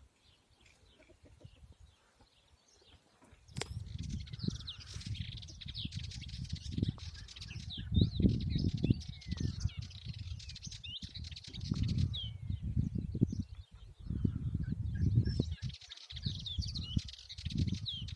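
European goldfinches twittering and chirping in quick, high notes, starting about three and a half seconds in, over a louder, irregular low rumble.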